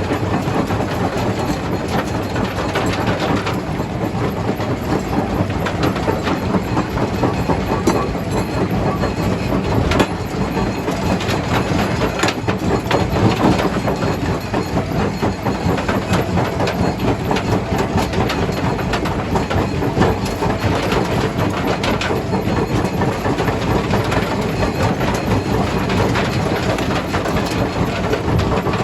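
Jaw crusher running and crushing stone: a steady heavy mechanical rumble with rocks cracking and knocking through it, a louder crack about ten seconds in.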